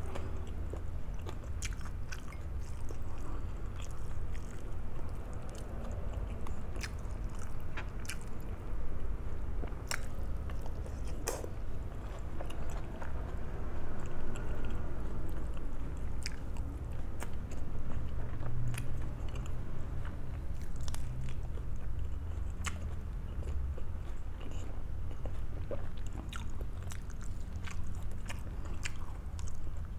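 Close-up chewing and biting of a fried breakfast of bacon, fried eggplant and omelette, with scattered short, crisp crunches and clicks throughout.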